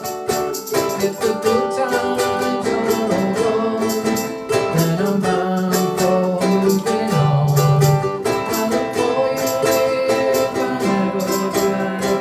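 A ukulele group strumming chords in a steady rhythm, with a voice singing the melody over them.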